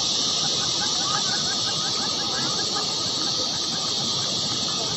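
Nestling birds cheeping in quick short notes, several a second, over a louder steady high hiss.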